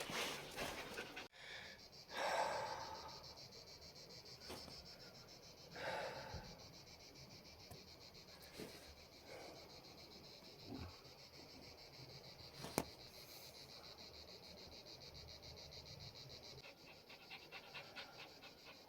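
Insects chirring steadily in a high, fast-pulsing drone, with a few soft rustles or breaths and one sharp click about thirteen seconds in.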